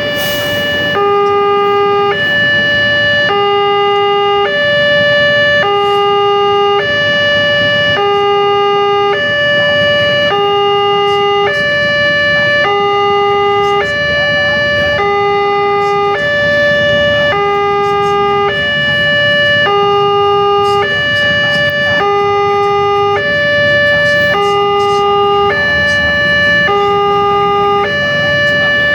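Wantech railway level-crossing warning alarm sounding a steady two-tone electronic signal, switching between a lower and a higher tone about once a second.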